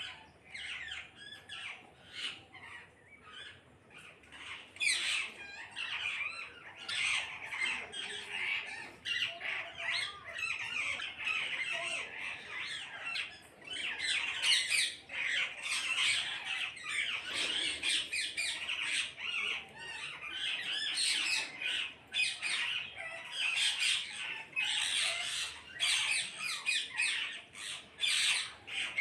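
A flock of parrots squawking, with many harsh calls overlapping. The calls are sparse at first and become a dense, unbroken din from about five seconds in.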